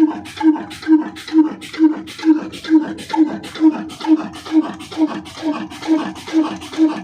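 Old 28 HP Ruston-type single-cylinder diesel engine running steadily, with a slow, even beat of about two firing strokes a second.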